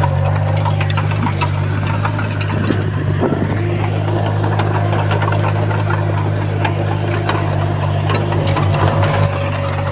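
Heavy construction machine's diesel engine running steadily under a rattle of scattered metallic clicks and clanks. About eight and a half seconds in the engine note pulses briefly, then it drops a little quieter.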